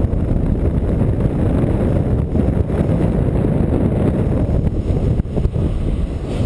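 Wind rushing and buffeting over the microphone of a paraglider pilot in flight, a loud, steady low rumble that flutters in level.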